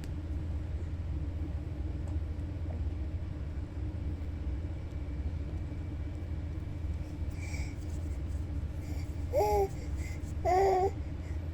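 Domestic cat purring steadily as a low, pulsing rumble while it kneads. Near the end come two short, gliding vocal calls, louder than the purr.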